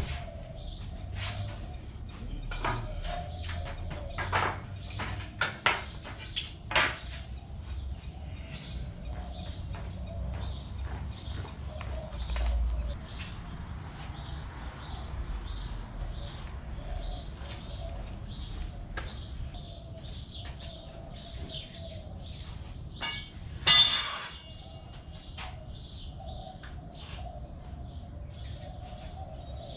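Small birds chirping, short high calls repeating steadily about once or twice a second, with a few sharp knocks in the first several seconds and one louder brief noisy burst near the end.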